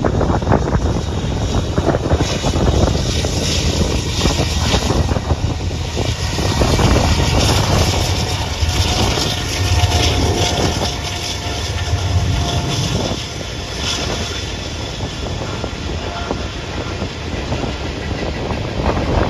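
Norfolk Southern freight train passing close by. The diesel locomotives rumble past, loudest about halfway through, then the hopper cars follow with their wheels clicking over the rail joints, a little quieter.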